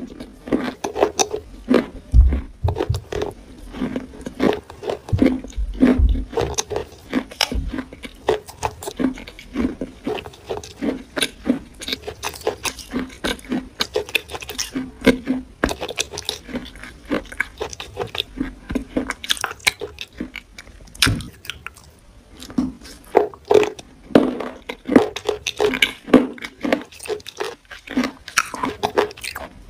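Close-miked chewing of juicy plum: wet crunching and crackling clicks in a quick, uneven rhythm, with a few dull low knocks in the first several seconds.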